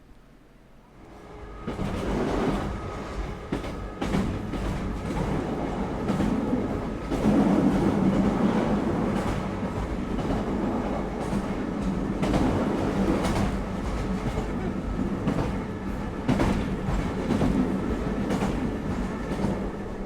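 Island Line class 483 (ex-London Underground 1938 tube stock) electric train running, with a steady motor hum and wheels clicking over the rail joints. The sound comes in sharply about a second and a half in.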